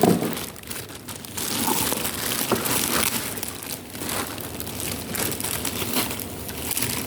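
Plastic packaging crinkling and rustling in irregular crackles as a parcel is handled and unwrapped.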